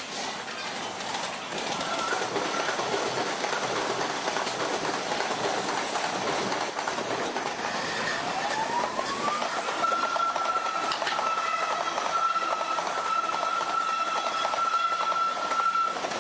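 Electric commuter train running through a junction, its wheels clattering over the rail joints and points. About halfway through, a high tone rises and then holds steady until near the end.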